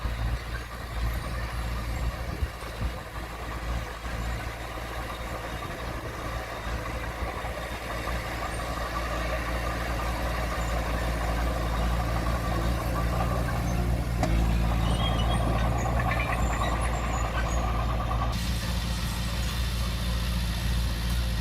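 Small bulldozer's diesel engine running steadily under work, growing louder partway through; near the end its higher-pitched part drops away suddenly.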